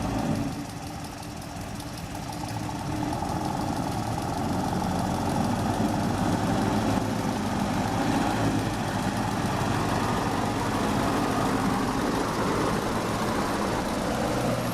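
Mitsubishi truck's engine running steadily, growing louder over the first few seconds and then holding level.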